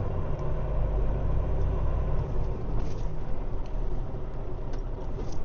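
Semi-truck tractor's diesel engine running with a steady low rumble, with a few faint ticks over it.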